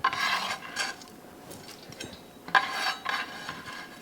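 Rustling and scraping of shredded cabbage and scallions being tossed in a bowl, with light clinks of the bowl and utensil: two main bursts, one at the start and one about two and a half seconds in, with smaller rustles between.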